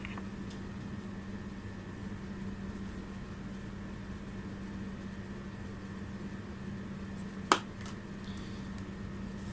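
Steady room noise with a constant low hum, and a single sharp click about seven and a half seconds in.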